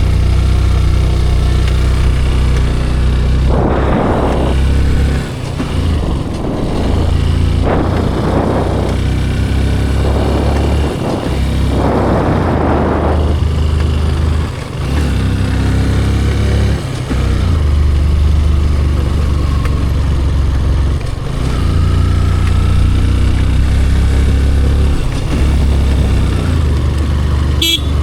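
Motorcycle riding along a road, heard from the rider's camera, with heavy wind rumble over the microphone and a few passing surges of rushing noise.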